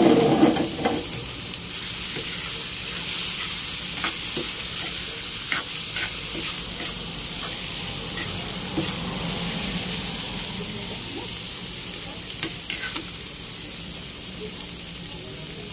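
Chopped pork innards sizzling in hot oil in a wok while being stir-fried with a spatula, the spatula scraping and clicking against the pan. The stirring is busiest in the first second; the sizzle then carries on steadily with scattered clicks.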